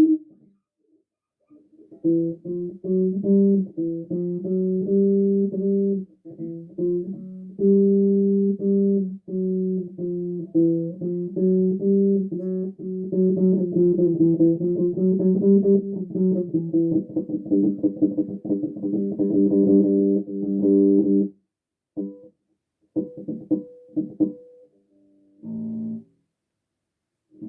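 Unaccompanied bass guitar playing a line of held and plucked notes, starting about two seconds in and breaking off about three-quarters of the way through, followed by a few short scattered notes.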